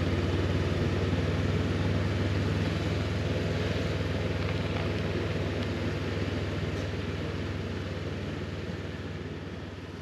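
Honda CB500X parallel-twin engine running steadily at cruising speed, with wind rushing over the microphone; the sound gradually fades near the end.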